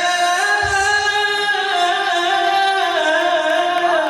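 A man singing an Arabic song, holding one long wordless note that moves slowly between a few pitches and falls near the end.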